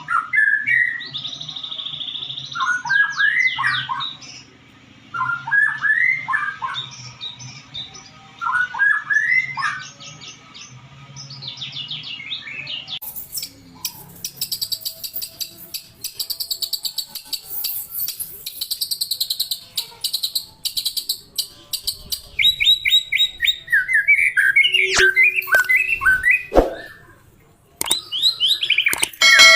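White-rumped shama (murai batu) singing, with phrases of rising whistles and quick trills. About 13 s in it changes to a louder, denser run of fast repeated notes, and it changes again near the end. A low steady hum sits under the first part.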